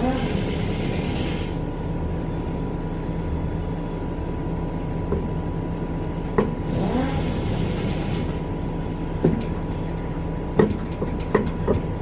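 Steady workshop machinery hum with two hisses of about a second and a half each, one at the start and one about six and a half seconds in. A few sharp metallic knocks come near the end, in keeping with tire-mounting work.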